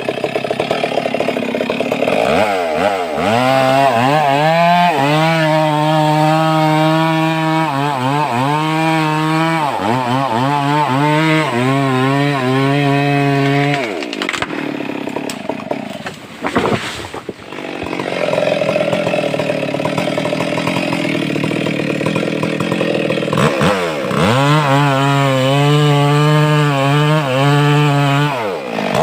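Stihl MS 382 two-stroke chainsaw cutting into an albasia (sengon) trunk, the engine speed dipping and recovering again and again under load. It eases off briefly about halfway, then bites back in and cuts on.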